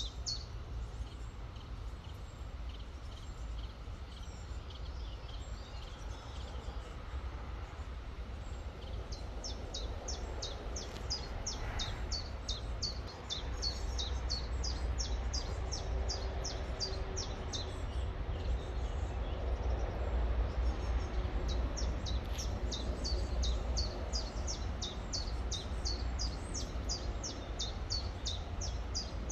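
A small bird singing long runs of rapidly repeated high, sharp notes, one run starting about a third of the way in and another in the last quarter, over the steady low rush of a river.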